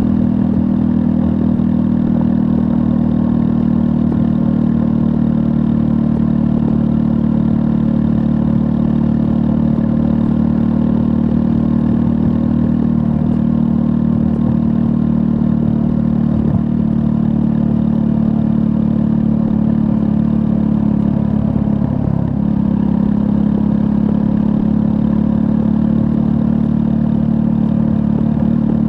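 2024 Triumph Scrambler 400 X's 398 cc single-cylinder engine running at a steady speed. Its note dips briefly about three-quarters of the way through, then settles back.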